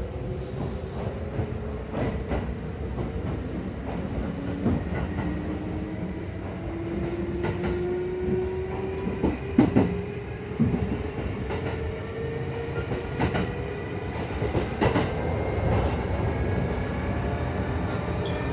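Kintetsu 2800 series motor car under way, its resistor-controlled Mitsubishi MB-3110A traction motors giving a low drone with whining tones that slowly rise in pitch as the train gathers speed. Wheels click over rail joints, loudest about nine to ten seconds in. The drivetrain coupling adds an odd noise to the motor sound, unlike a normal low-tone car of the class.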